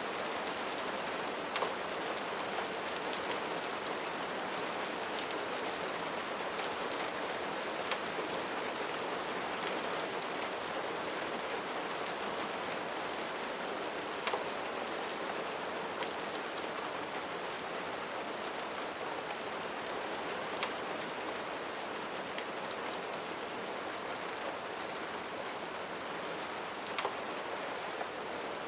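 Steady rain falling, with a few sharper ticks of single drops standing out every several seconds.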